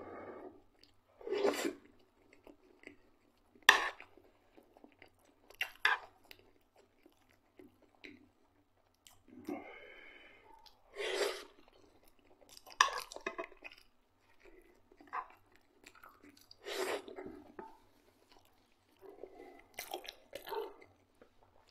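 Close-up chewing of fried potatoes and black rye bread: moist mouth noises in separate bursts every second or two, with short quiet gaps between bites.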